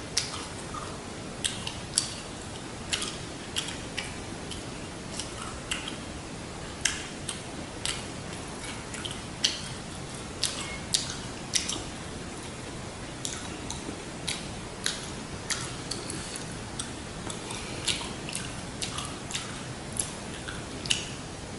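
Close-miked chewing of a fresh rice-paper spring roll with raw vegetables: irregular sharp, wet mouth clicks and small crisp crunches, one to three a second, over a faint steady hiss.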